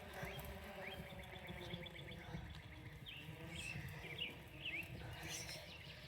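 Small birds chirping: a rapid trill of short repeated notes in the first half, then scattered quick sweeping calls, over a steady low rumble.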